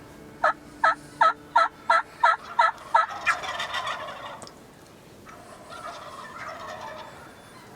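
Wild turkeys calling: a quick series of about eight sharp yelps over two and a half seconds, then a rolling gobble, and a quieter gobble a couple of seconds later.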